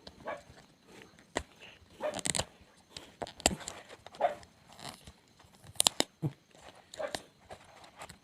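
Product packaging being torn open and handled by hand: scattered crinkles, rips and sharp clicks.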